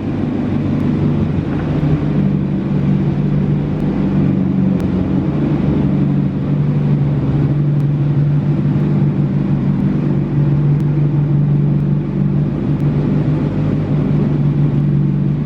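A motor vehicle's engine running steadily, a low even drone that holds the same pitch throughout.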